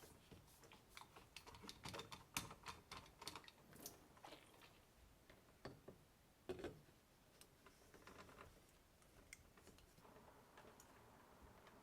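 Faint, irregular clicks and taps of small hard objects being handled, busiest in the first four seconds, with one louder knock about six and a half seconds in.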